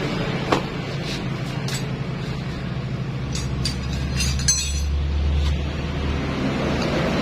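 Scattered light metallic clinks and taps of tools and engine parts being handled, about half a dozen, over a steady low hum. A deeper rumble swells in the middle.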